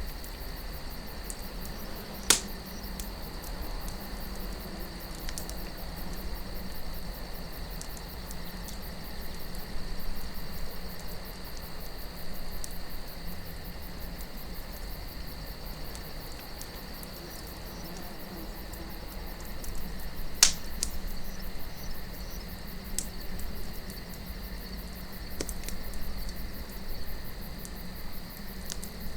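Wood campfire crackling, with scattered small snaps and two loud pops, one about two seconds in and one about twenty seconds in. Underneath, a steady high chirring of crickets and a low wind rumble.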